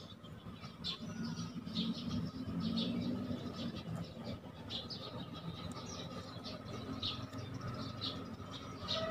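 Small birds chirping in short, repeated calls, over a low steady hum.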